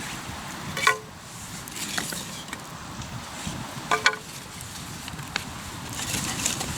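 Hardwood campfire burning and crackling, with two sharper pops about a second in and about four seconds in and fainter ticks between, over a steady low rush.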